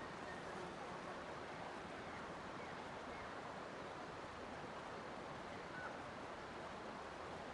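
Steady rushing of running water, with a few faint, brief bird chirps.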